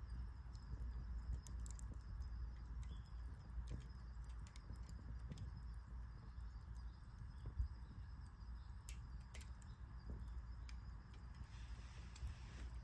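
Wood fire crackling, with scattered small sharp pops over a steady low rumble.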